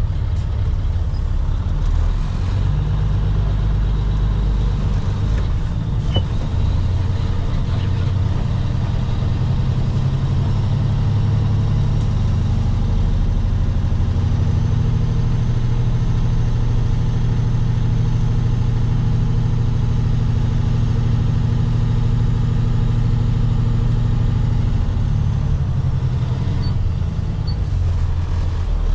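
Water truck's diesel engine running steadily, its pitch rising a little about twelve seconds in and dropping back a few seconds before the end.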